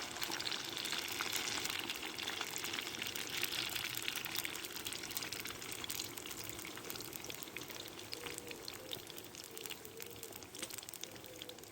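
Batter poured over sausages into hot oil in a cast-iron Dutch oven, sizzling with fine spitting crackles that slowly die down.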